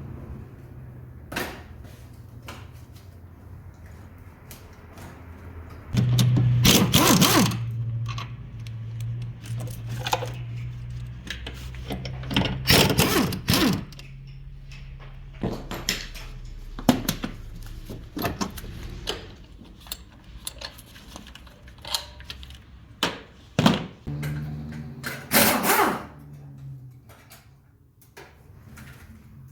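Workshop sounds of engine repair: metal tools clinking and knocking against engine parts, with a few louder rushing bursts about a second long and a low hum that comes and goes.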